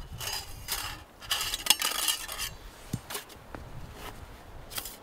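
Metal chimney pipe sections of a wood-burning tent stove clattering and scraping against each other as they are handled and slotted together, with a few separate sharp clinks in the second half.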